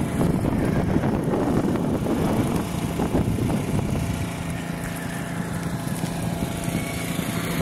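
A racing vehicle's engine running hard during a timed run. The sound is rough and dense at first, then settles into a steadier drone about halfway through.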